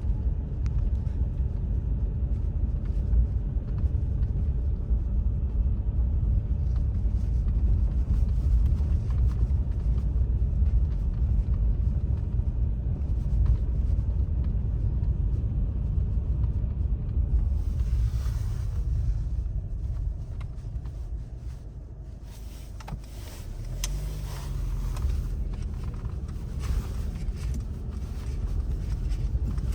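Low, steady rumble of a road vehicle running through the snow. It eases a little about twenty-two seconds in, then comes back with scattered crackles and ticks.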